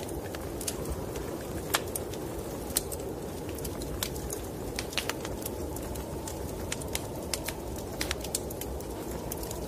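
Wood fire crackling, with sharp pops at irregular intervals, over a steady low rushing of snowstorm wind.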